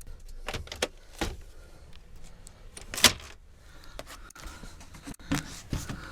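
Scattered clicks and knocks, with louder thumps about a second, three seconds and five and a half seconds in, over a faint low rumble.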